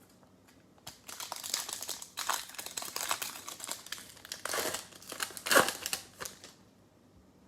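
Plastic trading-card pack wrapper being torn open and crinkled in the hands, a run of dense crackling rustles lasting about five seconds, with the sharpest crackle a little past the middle.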